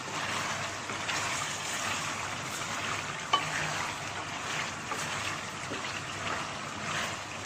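Chicken frying in oil in a pan with onion, garlic and ginger paste: a steady sizzle, with a faint click a little before the middle.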